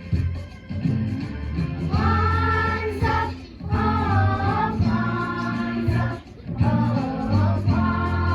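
Children singing a holiday song together over an instrumental accompaniment, the voices coming in about two seconds in.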